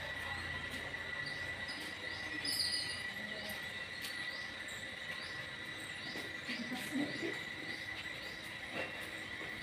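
Insects droning steadily on one high note, with short chirps repeating about twice a second; the sound cuts off suddenly near the end.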